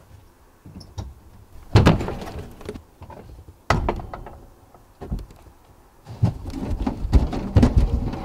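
Wooden garden shed door being opened: a loud thud about two seconds in and another near four seconds, then from about six seconds a busy run of small knocks and rustling.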